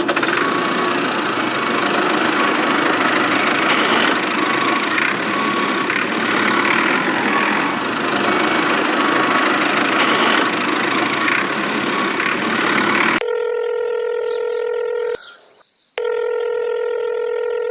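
A steady, noisy engine-like running with faint regular ticks, which cuts off suddenly about 13 seconds in. A telephone calling tone follows: a steady beep about two seconds long, a short gap, then the beep again.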